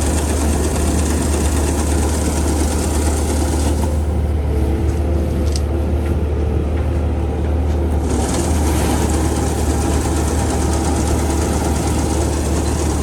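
An engine running steadily, with a strong low rumble; its higher noise drops away for about four seconds near the middle, then returns.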